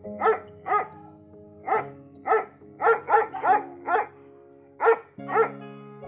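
A dog barking in quick runs, about ten sharp barks with short pauses between the groups, over background music with held notes.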